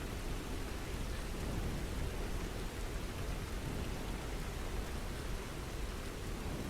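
Steady rain falling, an even rushing hiss with a deep low rumble beneath it.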